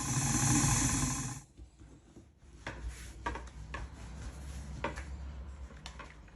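Rubbing and scraping of dough work on a wooden surface: loud for about a second and a half, then quieter, with several light knocks scattered through the rest.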